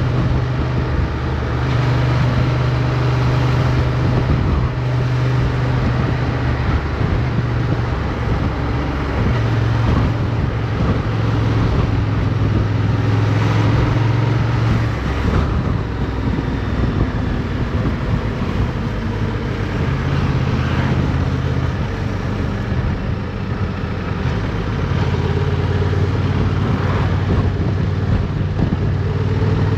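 Motorcycle engine running under way, heard from onboard. Its note steps up and down several times over a steady rush of road and wind noise.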